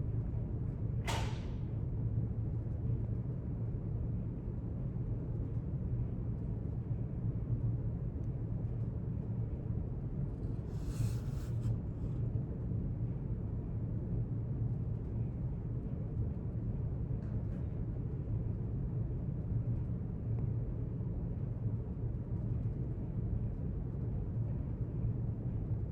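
Library room tone: a steady low hum, with a brief faint click about a second in and a short soft rustle near the middle.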